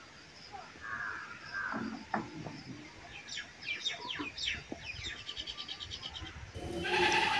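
Birds calling: a few short calls, then a run of quick high chirps and a fast trill of rapid high notes.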